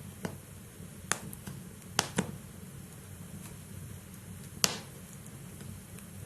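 Wood fire burning in a fireplace, crackling: a handful of sharp, irregular pops from the burning logs over a steady low rush of flame.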